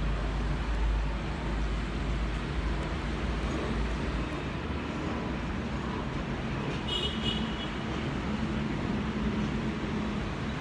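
Airbus A321neo's Pratt & Whitney PW1100G geared turbofans at takeoff power, heard from a distance as a steady rumble, deepest in the first few seconds. A brief high chirp sounds about seven seconds in.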